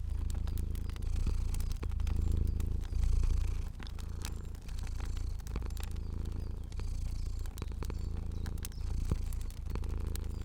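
Domestic cat purring, a low rumble that swells and dips with each breath about once a second, over a crackling fire with scattered sharp pops.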